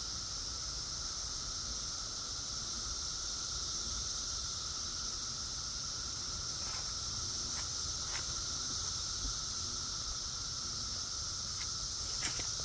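Chorus of periodical cicadas: an unbroken, even drone made of a high hissing band and a lower steady buzz, with a few faint clicks scattered through it.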